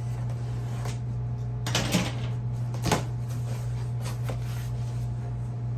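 A cardboard box being opened and its packing handled: a few short rustles and knocks, the loudest about two and three seconds in.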